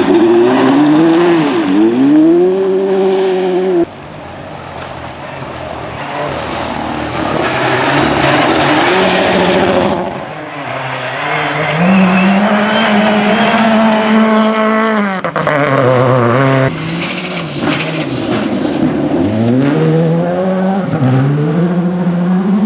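Rally cars running flat out on a special stage, their engines revving up and dropping back through gear changes. The sound changes abruptly about four, ten and seventeen seconds in, as it moves from one car's pass to the next.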